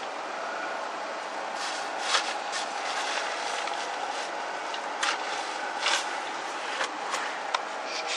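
Steady road and running noise of a vehicle on the move, with sharp clicks and knocks scattered through it from about a second and a half in.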